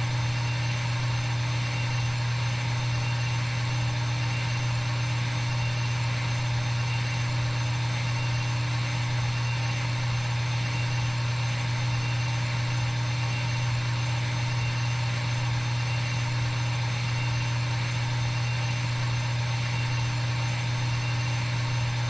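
A steady, unchanging machine hum with a strong low drone and a faint whine above it, without any change in pace or pitch.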